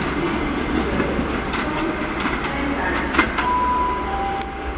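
Train running through the station, wheels clicking over the rail joints above a steady rumble. Near the end comes a short two-note falling chime, the station public-address tone ahead of an announcement.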